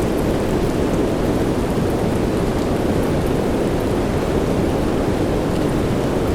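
Steady rain, a deep even rush with the faint patter of single drops above it.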